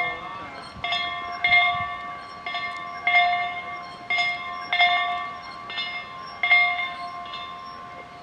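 Metal chimes or bells struck over and over at uneven intervals, about one strike a second, each ringing with the same few pitches and fading away.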